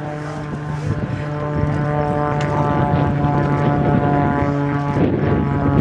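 Propeller airplane's piston engine running steadily and loud, its pitch shifting slightly about five seconds in.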